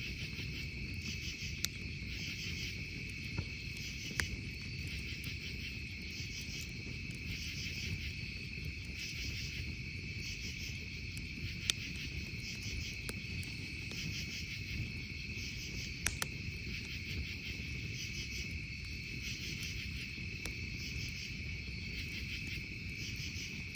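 Crickets and other insects chirping, a steady high trill with pulsing chirps repeating over it, along with a campfire giving a few sharp pops.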